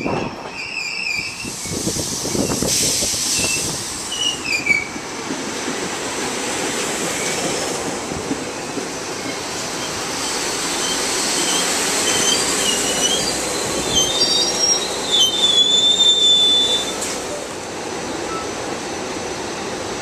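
SEPTA Silverliner IV electric multiple-unit train rolling in along the platform and slowing, with high-pitched squeals from its wheels and brakes near the start and again, loudest, about three quarters of the way through, before settling to a steadier rumble.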